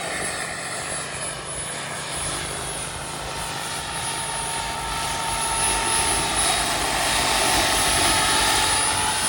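Turbine engine of a radio-controlled model helicopter running with a high, steady whine over a rushing noise, growing louder from about five seconds in.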